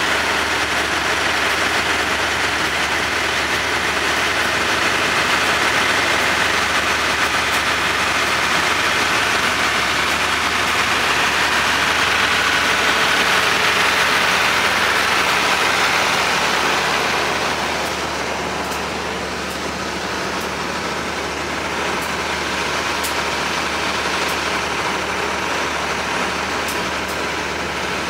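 Diesel-hauled passenger train at the station, a steady rumbling hiss that eases off a little about two-thirds of the way through.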